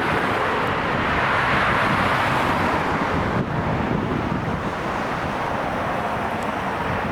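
Jet airliner engine noise, a steady rush that swells over the first couple of seconds and then slowly eases off, with some wind on the microphone.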